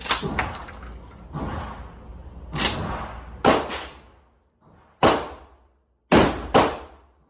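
About six gunshots, irregularly spaced, each a sharp blast with a short ringing tail; two of them come in quick succession near the end.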